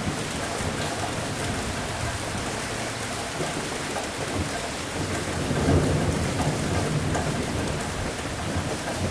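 Steady rain falling, with a roll of thunder rumbling up about halfway through, loudest a little past the middle, then fading back under the rain.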